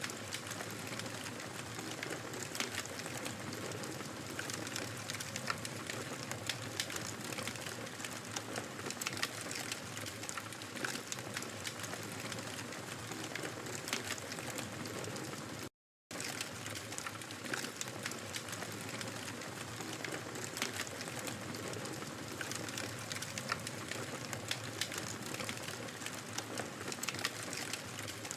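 Wood fire crackling: a steady hiss dotted with frequent small, sharp pops and snaps. The sound drops out completely for a moment a little past halfway, then resumes.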